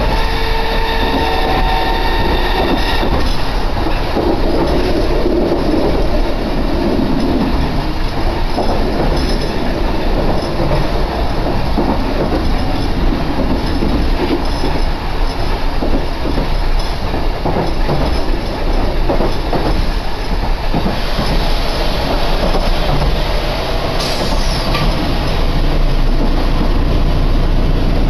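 Chikuho Electric Railway train running, heard from inside the car: a steady, loud rumble of wheels on rail, with a few steady tones in the first couple of seconds.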